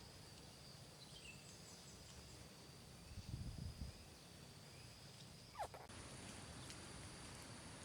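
Faint outdoor nature ambience: a steady high-pitched hum, a few faint falling bird-like chirps, and a low bump of handling noise about three seconds in.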